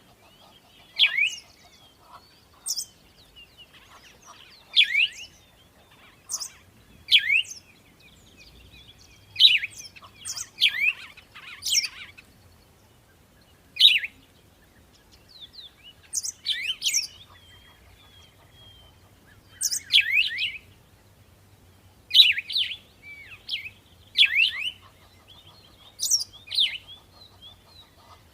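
Birds calling: short, sharp chirps every second or two, many sweeping quickly down in pitch, some with a very high thin note.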